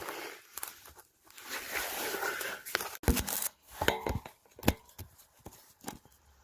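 Rustling and scraping with scattered clicks and knocks, the sound of tools and parts being handled, with a few sharp knocks in the second half.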